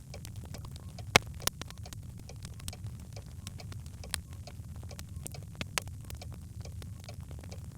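Birch logs crackling in a fireplace fire: irregular sharp pops over a steady low rumble of the flames, with two louder pops just over a second in.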